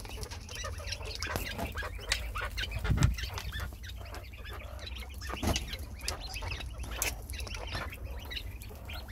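Quail in a backyard pen making many short chirps and clucks, scattered and overlapping.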